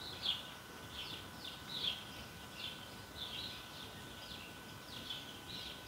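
A small bird chirping over and over, faintly: short, falling chirps about twice a second, over a faint steady tone.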